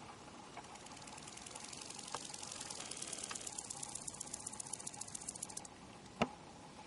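A male bow-winged grasshopper (Chorthippus latipennis) stridulating, rubbing a hind leg against the forewing. The chirp is a fast, even train of high-pitched rasping pulses that grows louder and then stops abruptly. A single sharp click follows shortly after.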